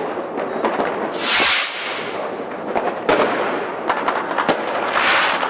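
Many fireworks and firecrackers going off at once: a dense, continuous crackle with sharp bangs scattered through it, and a loud hiss that swells and fades about a second and a half in.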